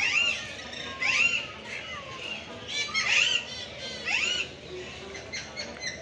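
Caged aviary birds squawking: a harsh call that rises and falls in pitch, repeated about once a second, with fainter bird calls underneath.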